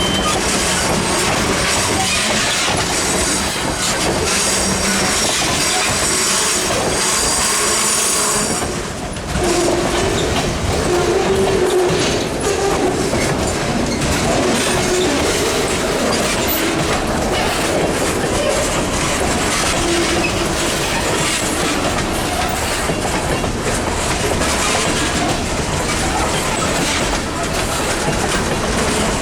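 Housatonic Railroad freight train rolling past, its wheels clicking over the rail joints, with a high steady wheel squeal through the first eight seconds or so.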